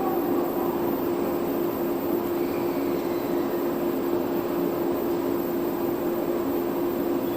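Steady mechanical hum: one constant droning tone over an even rumble, as from rail equipment running in place.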